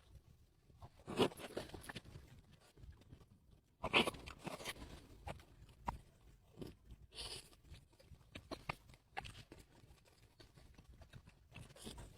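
Close-up bites into crunchy food followed by chewing: a loud crunching bite about a second in and another about four seconds in, each followed by a run of smaller crackling chews.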